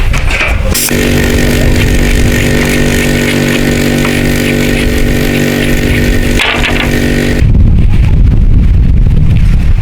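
A small engine running steadily at an even pitch, giving way about three-quarters of the way through to a louder, rougher low rumble.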